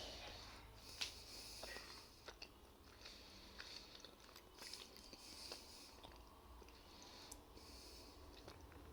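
A person chewing a soft, chewy brownie bar with the mouth close to the microphone: quiet, irregular clicks and smacks, the sharpest about a second in.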